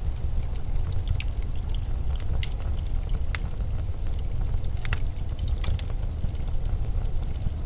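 Steady low rumble of snowstorm wind, with scattered sharp ticks and crackles throughout.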